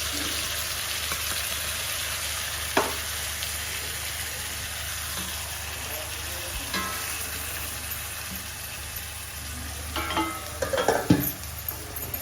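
Onion paste frying in hot oil with cumin, green chilies and curry leaves: a steady sizzling hiss. There is a single sharp knock about three seconds in, and a quick run of spoon knocks against the pan near the end as it is stirred.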